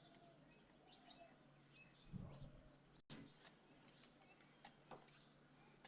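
Near silence: faint background with distant bird chirps and a soft low thump about two seconds in.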